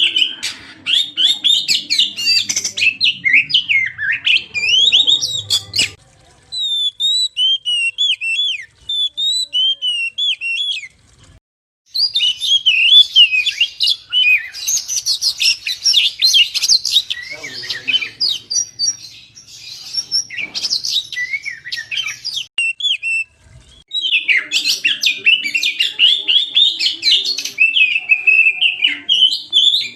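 Oriental magpie-robin (kacer) singing a rapid, varied song of whistles and chirps in long bursts, broken by short pauses about six, eleven and twenty-three seconds in; between the first two pauses the song drops to softer, spaced whistled notes.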